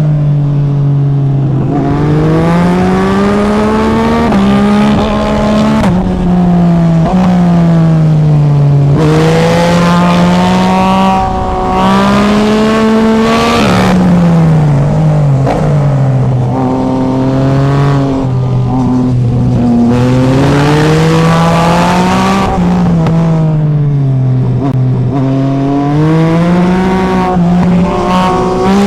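Yamaha MT-09 SP's inline-three engine pulling hard through the gears, its pitch climbing repeatedly and dropping sharply at each gear change, with slower falling glides as it rolls off the throttle.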